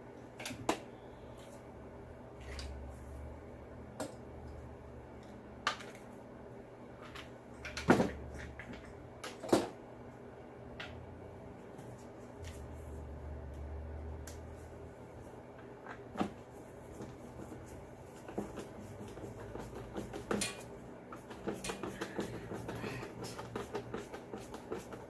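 Plastic leaf blower housing being handled and screwed together: scattered clicks and knocks of plastic parts and tools over a faint steady hum, with a run of quicker small ticks near the end.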